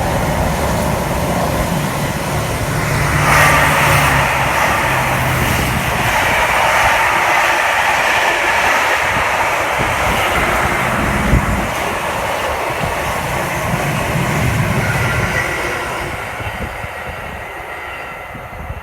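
Diesel train passing: a low engine hum at first, then wheels running on the rails from about three seconds in, dying away near the end.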